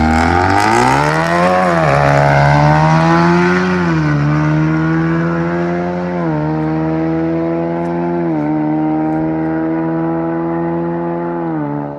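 A car engine under hard acceleration, running up through the gears. The pitch climbs and then drops sharply at each upshift, four times about two seconds apart, before the sound falls away near the end.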